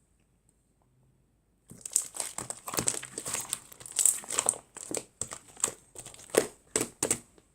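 Irregular crinkling and crackling in quick bursts, starting about two seconds in and running on for about six seconds.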